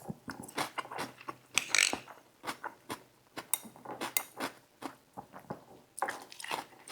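Close-miked eating: utensils clinking in a bowl and chewing of saimin noodles dressed with crisp lettuce and onions, in short irregular clicks and crunches.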